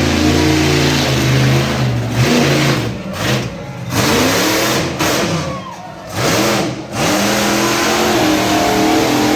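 Monster truck engine running loud and being revved several times, its pitch sweeping up with each blip of the throttle and dropping back between them.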